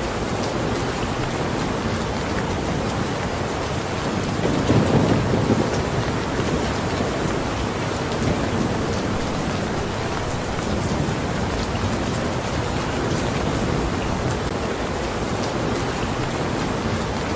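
Steady rain falling, with a low rumble of thunder swelling up about five seconds in.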